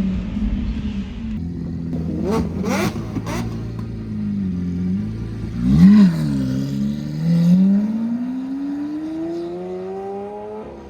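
Lamborghini Aventador's V12 engine revving: a sharp blip up and back down about six seconds in, then a long steady climb in pitch as it accelerates, stopping near the end. A few sharp cracks come a couple of seconds in.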